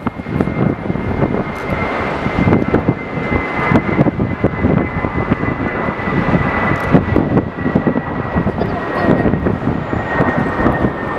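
Airbus A380 jet engines running as the airliner passes: a loud, uneven roar with a thin high whine that falls slowly in pitch.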